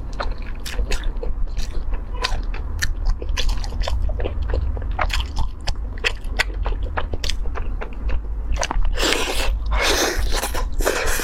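A person eating a chicken drumstick close to the microphone, with many short, sharp crunches and wet chewing clicks. Longer hissing sounds come about nine seconds in and again near the end.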